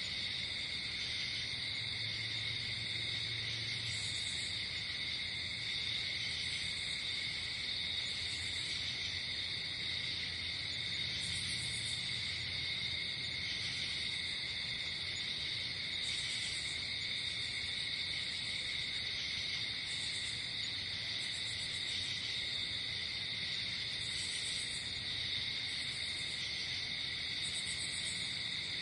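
Night-time chorus of crickets: a steady high, unbroken trill, with a second, higher insect chirping in short bursts every couple of seconds.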